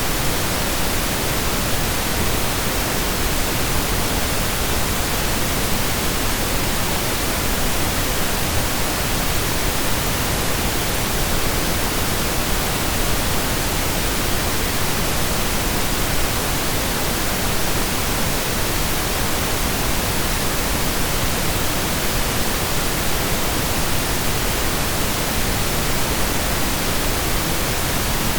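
Steady synthesized pink noise: an even, unchanging hiss with equal energy per octave, like steady rain or a waterfall heard from indoors.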